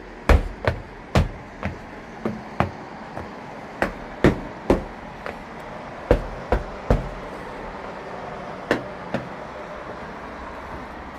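Shoes stamped and knocked hard to shake off ice: a series of heavy thuds, about two a second at first, then in irregular pairs, stopping near the end, over a steady background noise.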